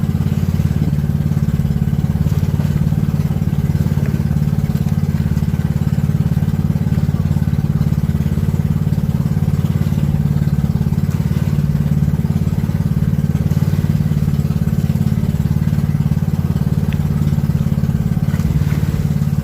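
Pumpboat engine running steadily at an even speed, a continuous low drone.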